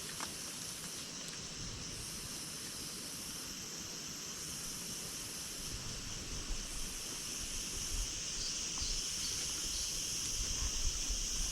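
Steady high buzzing of a forest insect chorus, with a higher buzzing layer that cuts in and out every couple of seconds.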